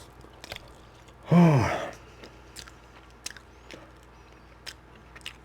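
A person chewing with soft, scattered mouth clicks, and one short voiced sigh falling in pitch about a second and a half in.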